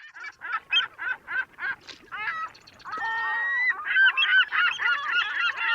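A flock of birds honking: a quick run of short calls, about four a second, then longer calls overlapping one another and getting louder.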